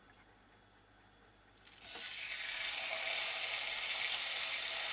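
Marinated chicken pieces going into a hot oiled grill pan. Sizzling starts suddenly about a second and a half in, with a few crackles, then settles into a steady sizzle.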